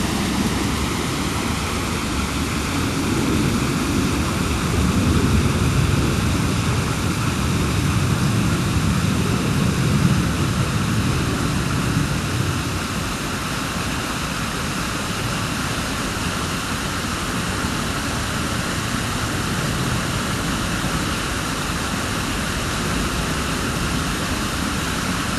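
Japanese-garden waterfall: water falling steadily, a continuous even splashing noise. It carries a deeper rumble that eases off about twelve seconds in.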